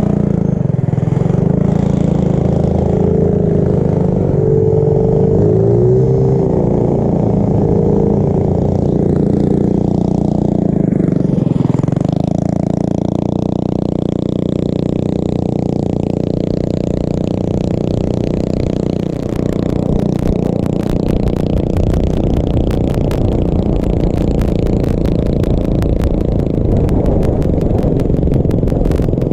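Small mini bike and pit bike engines running under way, the engine note rising and falling between about three and seven seconds in, then holding steady.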